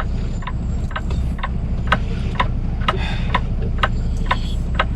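Semi-truck diesel engine idling, heard inside the cab, with the flasher relay ticking steadily about twice a second.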